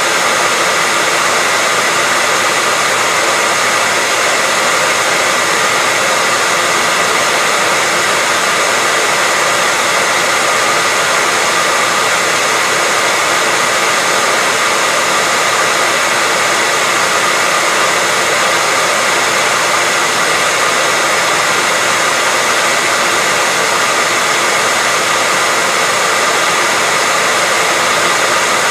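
Hair dryer blowing continuously at a steady speed: an even, unbroken rush of air with a faint steady whine in it.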